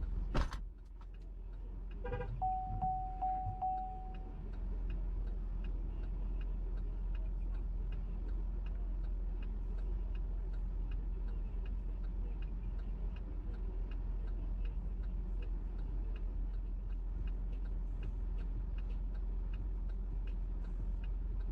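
A car's indicator relay ticking steadily about twice a second over a low idling engine hum, after a knock near the start and a single short beep about two seconds in.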